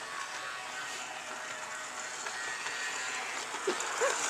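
Motorized toy train running steadily along its track.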